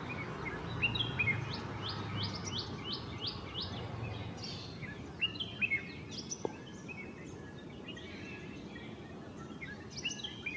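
Red-whiskered bulbul calling: short chirpy notes, with a quick even run of them in the first few seconds, then scattered notes, over steady background hiss.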